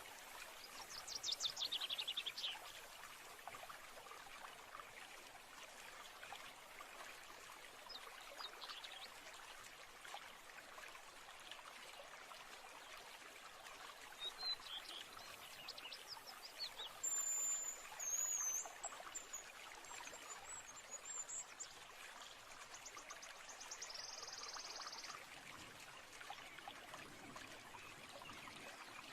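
Steady trickling stream with several birds calling over it: a falling trill near the start, a few short calls in the middle, high whistled notes about two-thirds through, and a short buzzy call near the end.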